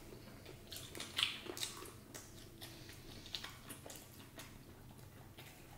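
Faint eating sounds: chewing and mouth smacks with scattered small clicks of food and dishes, the loudest a little over a second in.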